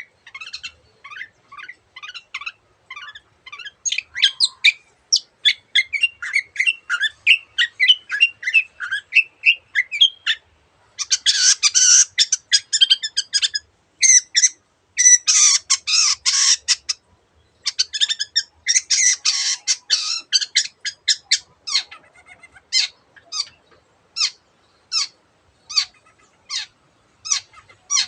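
Long-tailed shrike (cendet) in varied, fast song: quick chattering notes, broken in the middle by three stretches of harsh rasping calls, then single sharp notes about two a second near the end.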